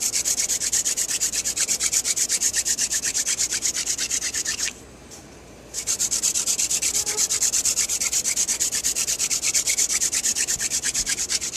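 Hand drill fire-making: a horseweed spindle twisted back and forth between the palms, grinding in the notch of a wooden hearth board in a fast, even rasping rhythm of about six strokes a second, with a pause of about a second near the middle as the hands go back up the spindle. It is putting out brown dust, with no black dust showing yet, so there is no ember.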